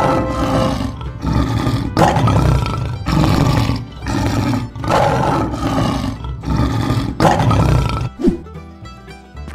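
Cartoon lion roar sound effect, repeated in bursts about a second long until a little after eight seconds in, over children's background music.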